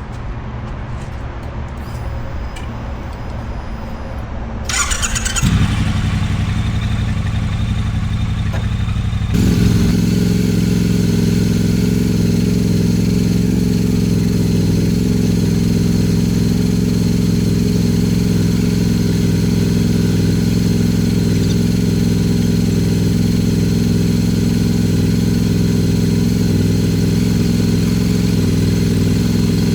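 Triumph Bonneville Bobber's 1200 cc parallel-twin engine starting up about five seconds in, then from about ten seconds in idling steadily as it warms up.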